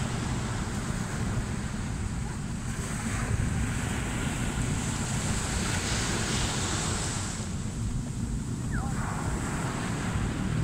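Ocean surf breaking and washing in, with wind buffeting the microphone as a steady low rumble. The wash of a wave swells about six seconds in, then eases.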